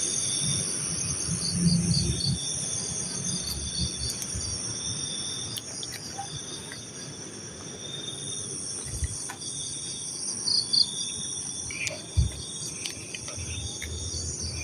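Night insects such as crickets chirping in chorus: a continuous high trill, a faster pulsing chirp, and a lower chirp that comes and goes in spells of about a second. Faint low rustles and thumps come and go underneath.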